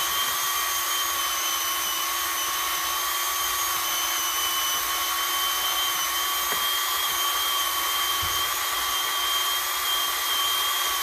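Pole saw's motor running steadily at full speed, a constant high whine over a rushing noise.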